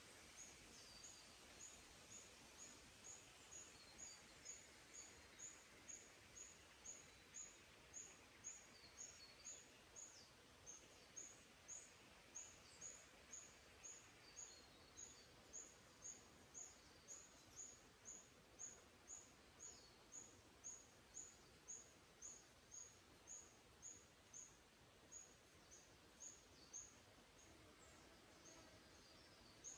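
A small bird repeating a single short, high note about twice a second, very evenly, falling silent a few seconds before the end. Faint scattered chirps of other birds sit over a quiet, steady forest hiss.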